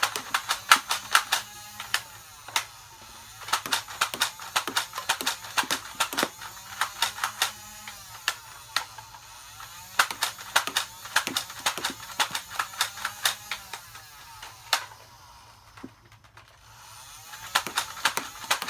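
Nerf N-Strike Elite Hailfire flywheel blaster firing darts in rapid bursts: quick clicks of each shot over the low hum of the flywheel motors. There are short pauses between bursts and a longer lull shortly before the end.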